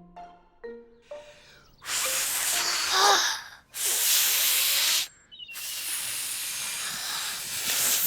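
A few xylophone-like music notes, then three stretches of loud, steady hissing that each start and stop abruptly, the first with a brief wavering whistle-like tone in it.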